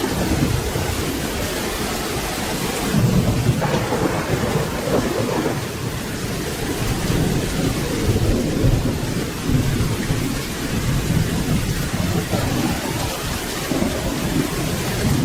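Steady rain with low rolling thunder; the rumble swells about three seconds in and again a few seconds later.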